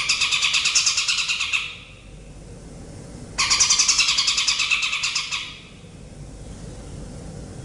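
A bird's rapid, buzzy pulsed trill lasting about two seconds, repeated about four seconds later, over a steady low background hiss. The song is a recorded 'master' track used to teach caged competition songbirds.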